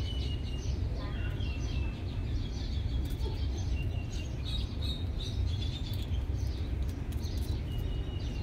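Small birds chirping and twittering in short repeated calls over a steady low background rumble.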